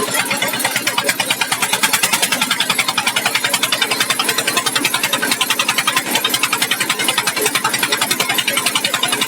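Small boat's engine running with a fast, even chugging.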